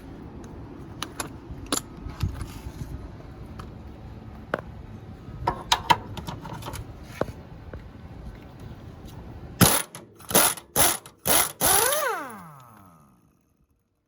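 A cordless power tool, a drill or impact driver on the 14 mm bracket bolts, runs in about five short loud bursts late on, then winds down with falling pitch. Before that there are light clicks and clinks of tools and metal parts being handled.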